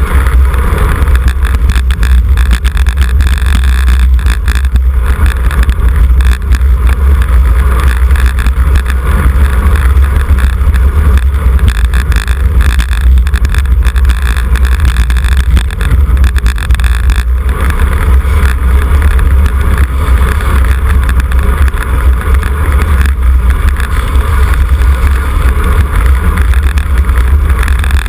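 Wind buffeting the microphone of a camera on a moving road bicycle: a loud, steady low rumble with a hiss above it.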